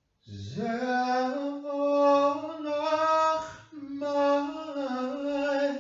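A single voice singing long held notes in two phrases, sliding up into the first note and pausing briefly before the second.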